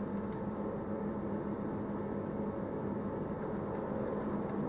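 Steady running noise of a train: an even rumble with a low, constant hum.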